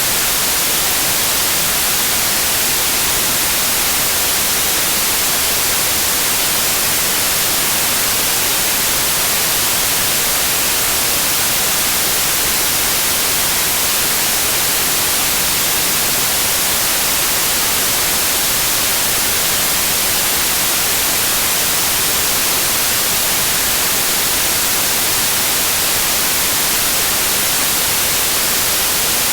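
Steady electronic white noise: an even, unbroken hiss, strongest in the high treble, with no changes or events.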